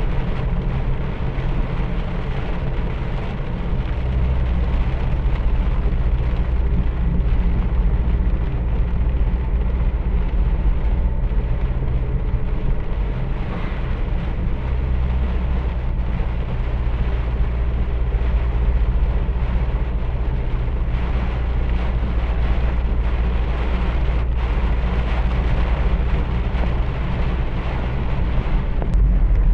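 Heavy storm rain: a steady hiss of rain over a constant deep rumble that grows heavier about four seconds in.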